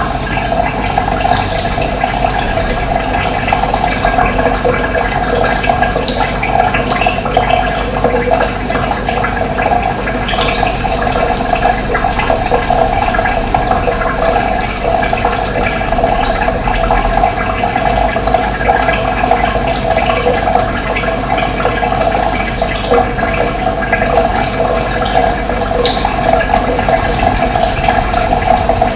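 Running water flowing steadily: a loud, even rush with no breaks.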